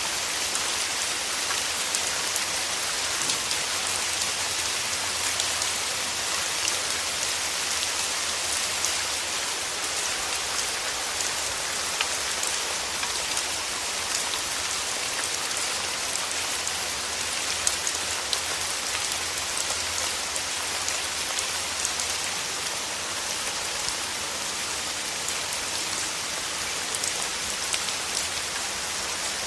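Steady rain falling on a surface: an even hiss with many small scattered drop ticks.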